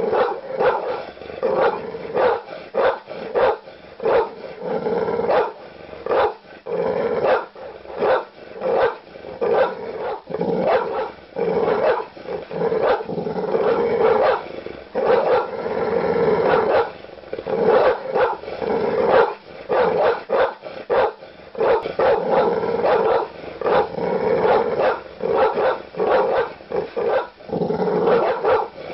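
Large dog barking aggressively: deep, loud barks in a fast, unbroken string, several a second, with short pauses between volleys.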